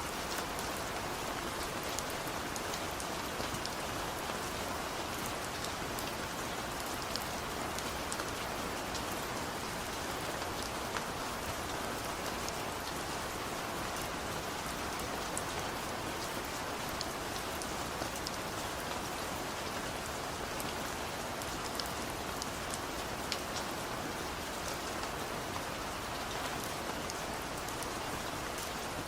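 Steady rain falling, an even hiss dotted with many small, sharp drop ticks on a surface.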